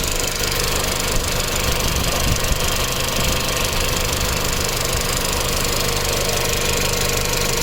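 Audi A4 1.8-litre turbocharged four-cylinder engine idling steadily with a fast, constant ticking. The owner puts the tick down to too little oil pressure reaching the cam chain tensioner at idle, rather than the injectors.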